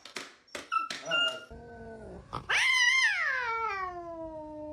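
Dog howling: one long howl that swoops up, then slides slowly down in pitch and holds, starting about halfway in.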